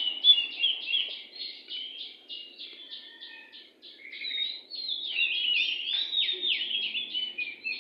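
Oriental magpie-robin (kacer) singing a fast, varied song of whistled notes. The song drops to a quieter run of short repeated notes in the middle, then grows louder again a little over halfway through.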